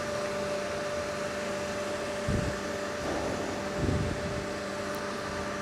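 Steady hum of running machinery with a constant tone, from the transformer drying plant's equipment. Two brief soft low sounds come about two and four seconds in.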